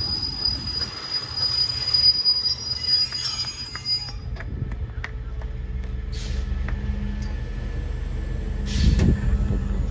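Passenger train coaches rolling slowly alongside a station platform. There is a steady high-pitched squeal for the first four seconds, then a steady low rumble of the moving coaches.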